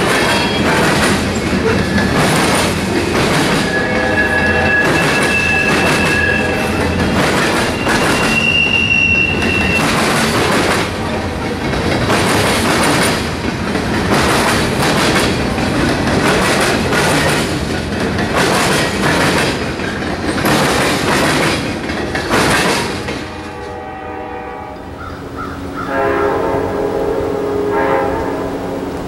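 Freight cars rolling past, their wheels clattering over the rail joints in a steady rhythm, with a thin high wheel squeal for a few seconds early on. About 24 seconds in the clatter gives way to a train horn sounding.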